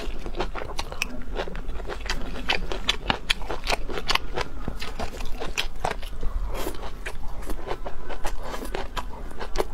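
Close mouth sounds of chewing sliced raw red chilies and water spinach stems in quick, crisp crunches, several a second. A spoon and chopsticks scrape on the metal tray now and then.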